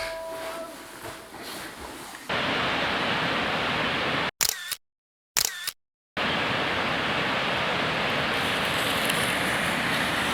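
Steady rushing of a waterfall, cut off twice by camera shutter clicks with short gaps of silence a couple of seconds in, then running on evenly.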